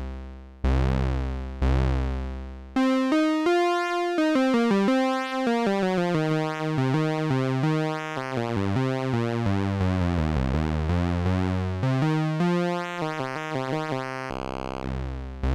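Analog synthesizer pulse-wave tone from a Little Monster VCO, its pulse width swept by an envelope on each gated note, so the tone colour shifts with every note. A few low notes repeat about once a second, then a quicker run of notes falls in pitch and climbs back, and a low note returns near the end.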